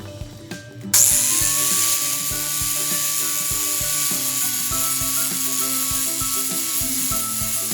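A handheld power tool with an abrasive attachment starts about a second in: its motor whine climbs quickly and then holds steady while it rubs against metal with a loud, even rushing noise, stripping rust from the gate. Background music plays throughout.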